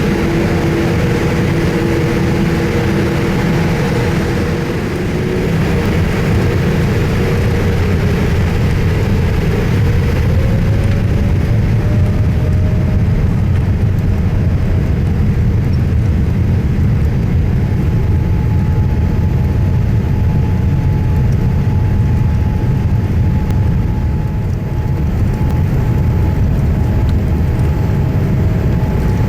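Boeing 787-8's General Electric GEnx-1B engines heard from inside the passenger cabin: a loud, steady low rumble with a whining engine tone that rises in pitch about ten to thirteen seconds in, and a higher steady tone joining about seventeen seconds in.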